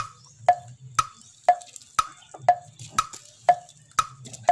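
Steady wood-block beat, two knocks a second alternating between a higher and a lower pitch, over a low pulsing hum.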